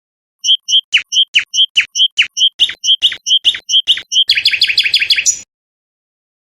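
A songbird singing one phrase: a string of clear short notes, every other one a downward-sliding whistle, about five a second, breaking into a fast trill about four seconds in that cuts off suddenly.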